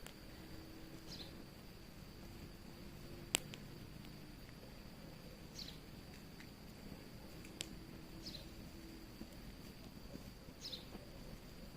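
Fire crackling with a few sharp pops, the loudest about a third of the way in. Beneath it runs a steady high-pitched trill, and a short falling chirp repeats about every two and a half seconds.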